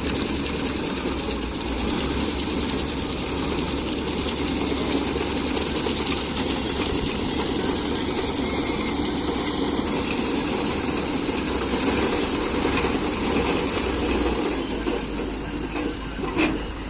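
Combine harvester running through wheat, a steady dense mechanical clatter of its working parts. It eases a little near the end, with one short knock.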